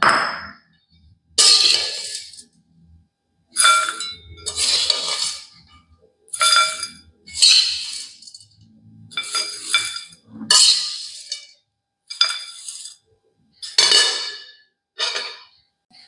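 A metal utensil scraping and clinking against metal cookware in repeated strokes, about one a second, each with a light metallic ring.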